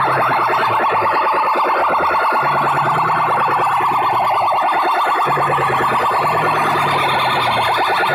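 Electronic DJ competition track blasting from a sound system: a loud, fast-warbling siren-like tone repeats many times a second over a low bass line that steps between two notes.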